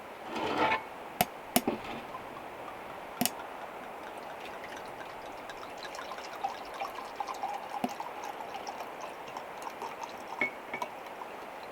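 A few sharp clicks of things being handled, then a faint, trickling sound with small ticks, like liquid being poured.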